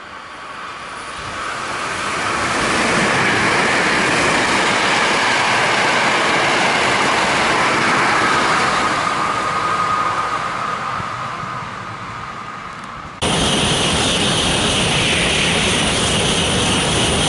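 Hankyu limited express electric train passing through a station at speed: a loud rush of wheels and motors that builds over about three seconds, with a whine falling in pitch, then fades. About 13 seconds in, the sound cuts abruptly to a Tokaido Shinkansen N700-series bullet train rushing past close by.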